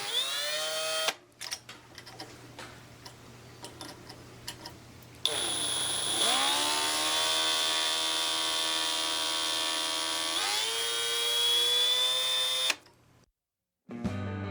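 Electric drill boring a pilot hole in an engine exhaust pipe for a temperature probe. It whines up to speed, runs slowly for a few seconds with scratchy clicks, then runs fast and steady, its pitch dipping as the bit bites into the pipe and rising again before it stops near the end.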